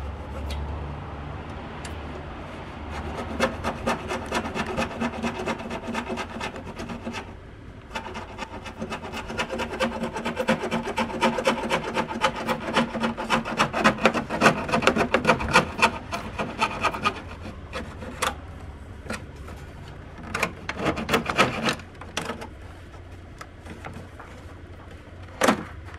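Handsaw cutting a groove into the frame of a box in fast back-and-forth strokes, with a short pause about a third of the way in. Near the end come a few shorter bursts of sawing and a single knock.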